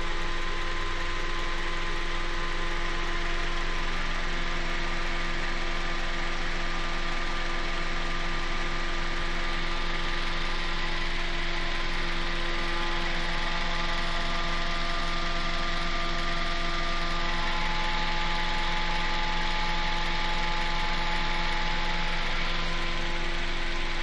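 Toyota 1ZZ-FE 1.8-litre inline-four engine idling steadily, its revs settling down just as it begins. This is the engine the owner says has a knock.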